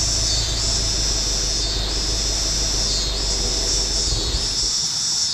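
2011 Subaru WRX's turbocharged flat-four, fitted with a catless downpipe, idling with a steady low exhaust rumble after a rev. A loud hiss runs over it, swelling and dipping about every second and a half. The rumble drops away near the end.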